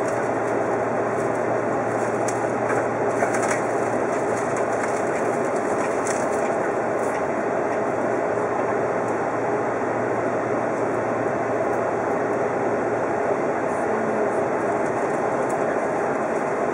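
Odakyu VSE 50000-series Romancecar running along the line, heard from inside the front car: a steady rumble of wheels on rail with a low hum that fades about three-quarters of the way through, and a few light clicks.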